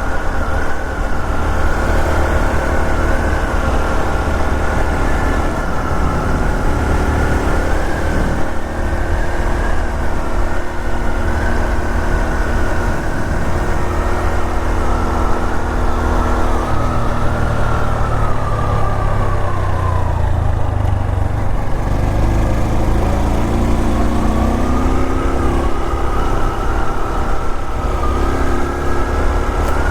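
Honda Super Cub 125's single-cylinder engine running under way, its exhaust note steady, then slowing about two-thirds of the way through and rising again in pitch as it accelerates.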